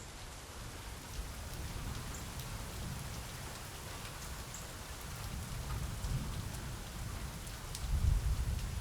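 Steady rain falling, with scattered drop ticks and a low rumble that swells near the end.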